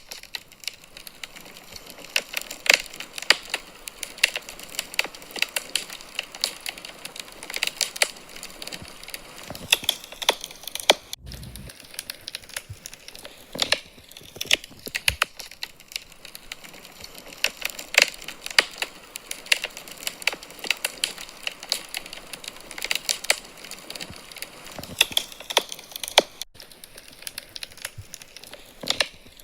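Wood fire crackling in a fireplace: irregular sharp pops and snaps over a soft hiss, with two very brief dropouts.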